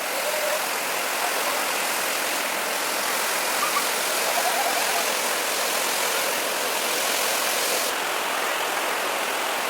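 Steady rush of running water, like a forest stream or small waterfall, with no break.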